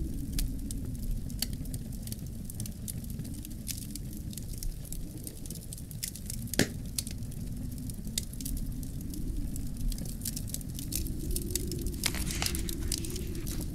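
Wood fire in a fireplace crackling with scattered sharp pops, one loud pop about halfway through, over a low wind that swells and eases.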